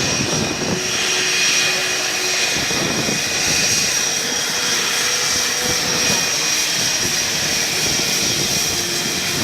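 Jet aircraft engines running steadily on the ground, a constant rushing noise with a high steady whine.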